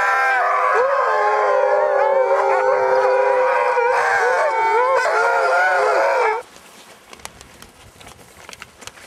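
A pack of sled dogs howling together, many voices overlapping and sliding up and down in pitch. The chorus cuts off suddenly about six seconds in, leaving only faint clicks and rustling.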